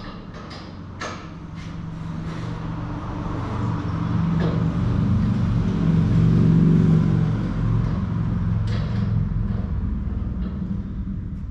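A vehicle engine running with a low hum, growing louder to a peak past the middle and then fading again, with a few light clicks near the start.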